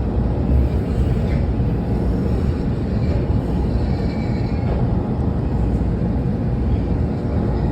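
Washington Metro railcar running, heard from inside the car: a steady low rumble of wheels on rail and traction motors, with a faint thin squeal about four seconds in.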